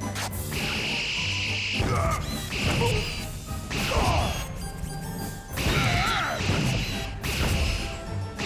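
Cartoon fight sound effects: crashes and blows, with repeated warbling electronic effects, over action background music.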